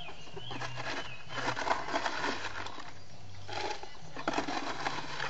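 Wild birds singing short whistled notes, mostly early on, over bursts of rustling and scraping from handling plants and pots.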